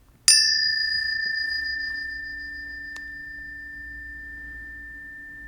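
A planetary tuning fork struck once about a quarter second in: a brief bright metallic clang, then a steady high ring with a fainter low hum beneath, slowly fading.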